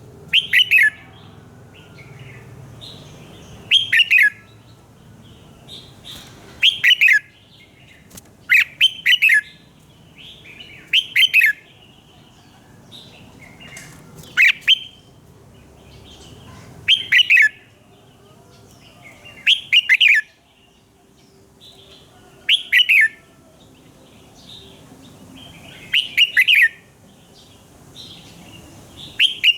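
Red-whiskered bulbul singing: short loud phrases of a few quick, falling notes, repeated every two to three seconds.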